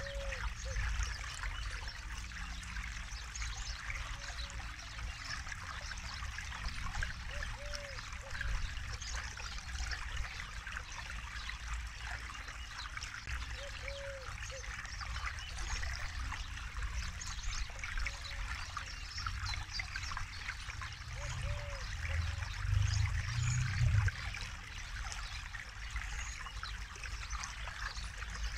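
Forest river flowing steadily over stones, a continuous trickling and rushing of water, with a low rumble that swells briefly near the end. A short low call recurs every few seconds.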